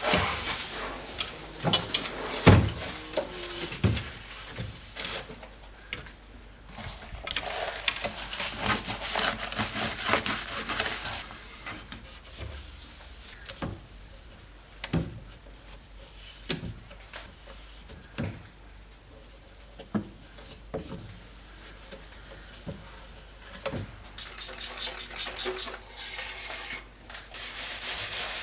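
Household cleaning: scattered knocks and clatter of hard objects being handled and set down, between stretches of rubbing and rustling. Near the end come quick, even back-and-forth scrubbing strokes.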